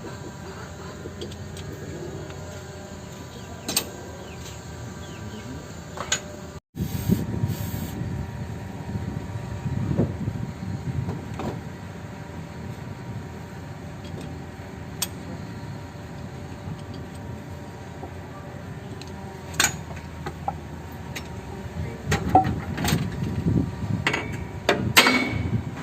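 Scattered metallic clicks and knocks of hand tools on a truck diesel's injection pump and engine parts, over a steady low hum; the knocks come more often near the end. The sound cuts out completely for a moment about seven seconds in.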